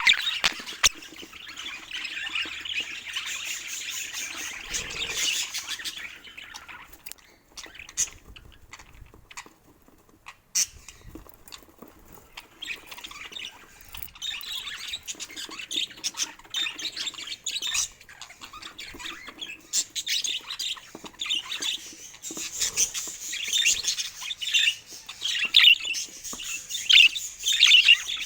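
Budgerigars chirping and warbling, with a sparser stretch a third of the way in and busier chatter toward the end.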